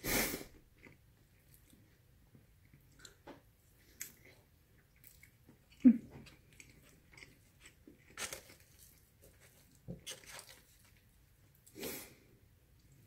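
Close-up chewing and mouth sounds of someone eating a soft pumpkin and tofu curry with rice, coming in scattered short bursts. There are occasional sharp clicks of a plastic fork against the takeout container, the sharpest one about halfway through.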